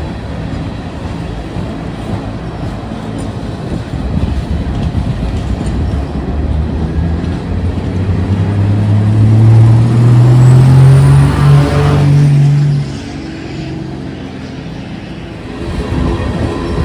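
Diesel locomotive passing close by, its engine drone growing louder and creeping up in pitch, then dropping off sharply about thirteen seconds in, leaving the lower rumble of the train rolling past.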